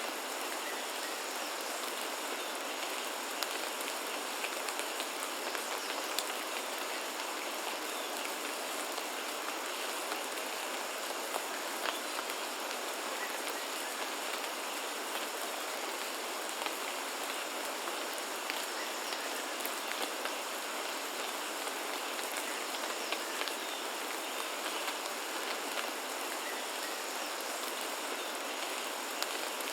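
Steady rain falling, a constant hiss with many small drop hits ticking through it, over a faint steady high tone.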